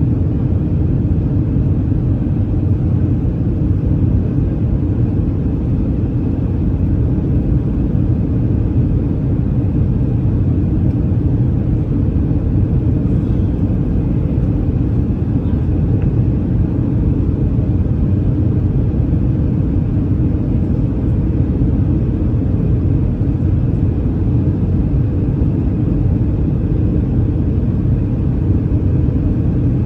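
Steady, loud low rumble of engine and airflow noise inside the cabin of an Airbus A319 in flight.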